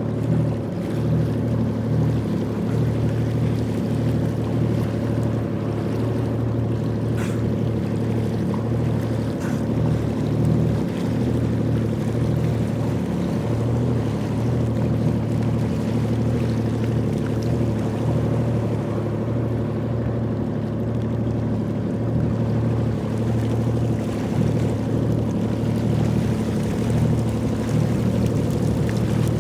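Jet ski engine running steadily, an even low drone that holds the same level throughout.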